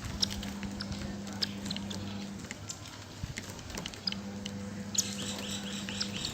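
Sparrows feeding on foxtail millet seed: scattered short, high ticks and chirps from pecking and calling, busier near the end. A steady low hum runs under it and drops out for about two seconds in the middle.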